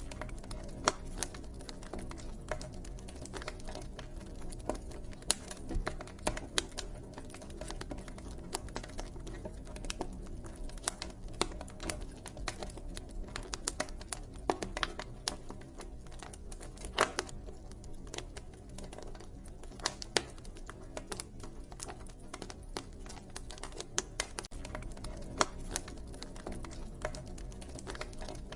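Wood fire crackling: irregular sharp pops and snaps, several a second, over a steady low background.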